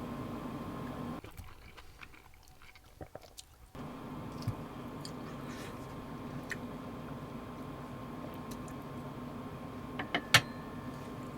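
Small clicks and crunches of food being handled and prepared, over a steady low hum. One sharper click comes about ten seconds in, and the background drops away for a couple of seconds near the start.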